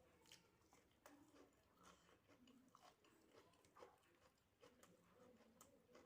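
Faint close-up chewing of a mouthful of rice, dal and mashed potato, with soft, irregular wet clicks of the mouth.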